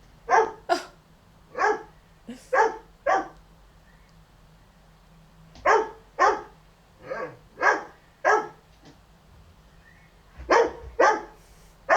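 A dog barking repeatedly in three bursts of short, sharp barks, with pauses of about two seconds between them.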